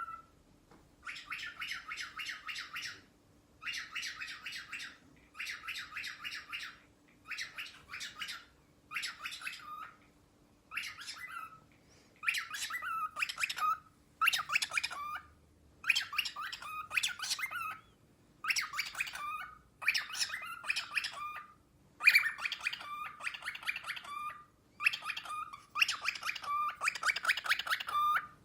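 Cockatiel singing in a string of short phrases, each one to two seconds of rapid chirps and whistles with brief pauses between. The phrases get louder about halfway through, and many end on a falling note.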